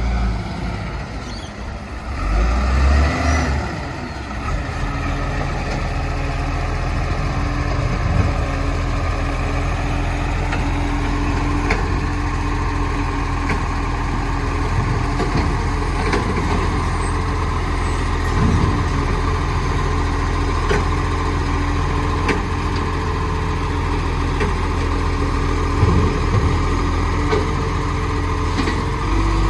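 Garbage truck running with a steady engine hum, swelling louder about two to three seconds in, with a few short knocks scattered through it.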